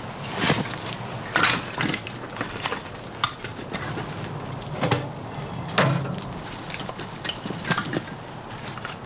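Irregular knocks and clatters, about seven of them spread a second or so apart, over a steady background hiss.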